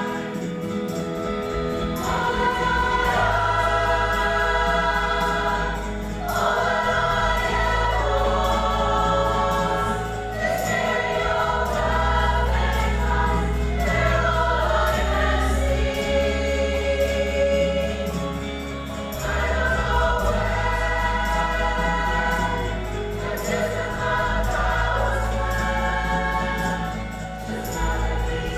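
Women's choir singing a song in several-part harmony over sustained low tones, with short breaks between phrases.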